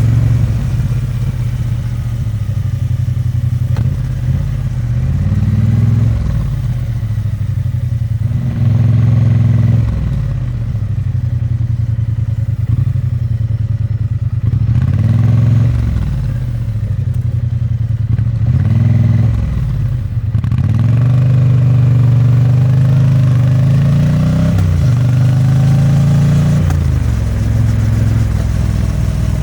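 Triumph Bonneville T100's 900 cc parallel-twin engine and exhaust, heard from the moving bike, repeatedly rising in pitch under acceleration and dropping back as it shifts gears and slows.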